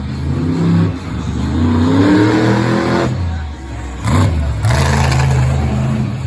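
Monster truck engine revving hard during a freestyle run, its pitch climbing and falling with the throttle. It drops off briefly about three seconds in, then comes back with a sudden loud surge and holds at high revs.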